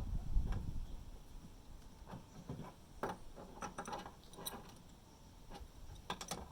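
Scattered light clicks and taps of tools and small parts being handled, typical of refitting the cover over an air conditioner outdoor unit's pipe connections.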